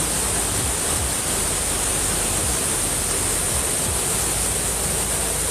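Steady rushing noise with a bright high hiss over an uneven low rumble.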